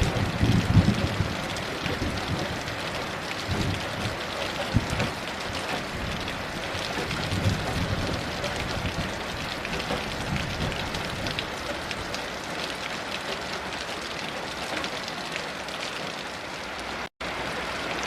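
Steady heavy rain falling, with low rumbles of distant thunder coming and going, strongest at the start. The sound cuts out completely for a split second near the end.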